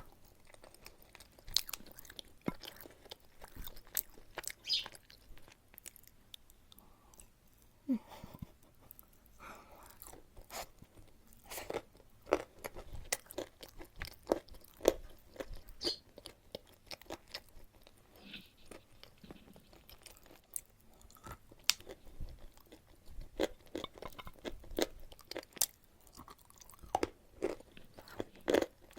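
Chalk being bitten and chewed close to the microphone: irregular, crisp crunches one after another, some sharper and louder bites among them.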